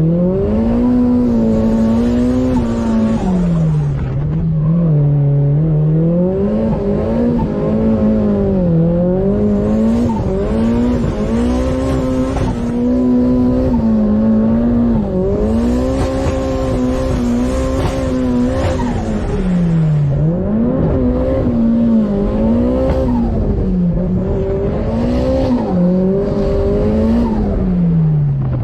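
Car engine driven hard, its pitch climbing and dropping over and over as it revs up and falls back, with several sharp drops in pitch.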